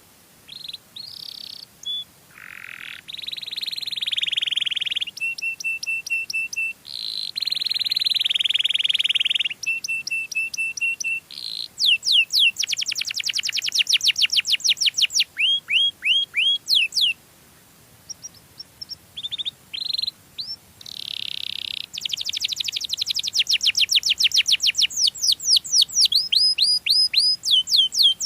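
Domestic canary singing a long, varied song. It moves between fast trills of repeated sweeping notes, held buzzy notes and short steady whistled notes, with a brief pause about two-thirds of the way through.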